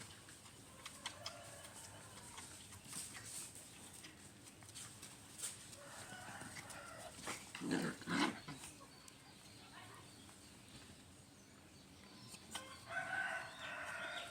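Animal calls: a drawn-out pitched call about six seconds in and another near the end, with two short, louder low sounds in quick succession about eight seconds in.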